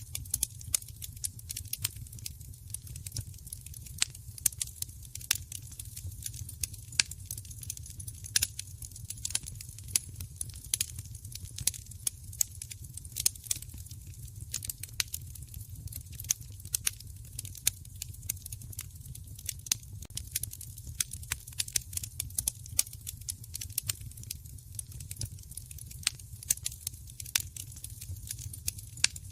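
Fireplace wood fire crackling, with frequent irregular sharp pops and snaps over a steady low rumble.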